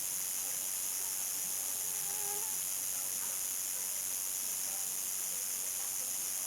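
Crickets singing in a steady, unbroken, high-pitched chorus, with a faint short call from another animal about two seconds in.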